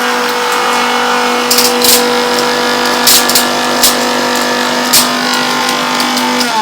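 Electric mixer grinder running at a steady high speed, grinding onion, ginger and garlic into a masala paste, with occasional sharp ticks. It is switched off at the very end, and its pitch falls as the motor winds down.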